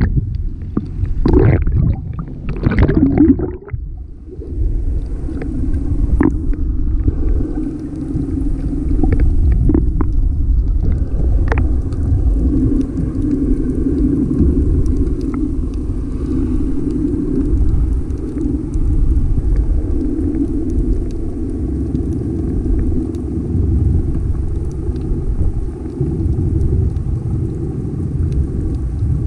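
Tour boat's engine running steadily underway, a low continuous rumble, after a few louder, shorter sounds in the first three seconds or so.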